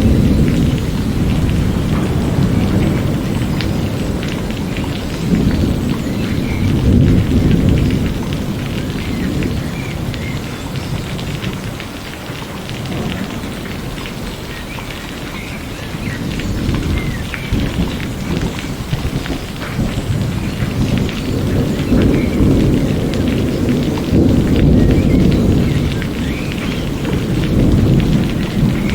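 Steady rain falling, with fine patters of drops, under a deep thunder rumble that swells and fades several times, easing for a few seconds near the middle.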